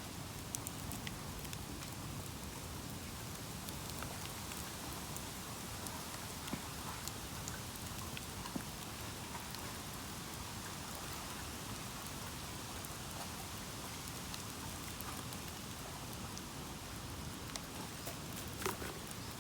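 Bamboo bonfire burning with a steady crackle and hiss, broken by a few sharp snaps from the burning bamboo.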